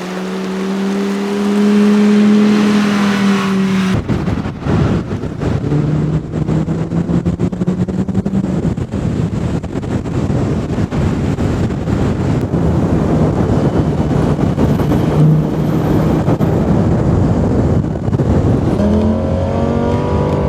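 Lamborghini Gallardo V10 engine accelerating hard, its pitch rising. About four seconds in the sound changes suddenly to a loud rushing noise with the engine running steadily beneath it. The engine climbs in pitch again near the end.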